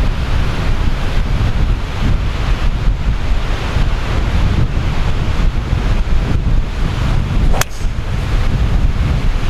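Strong wind buffeting the microphone in a steady, rumbling roar. Near the end comes a single sharp crack, a golf club striking the ball.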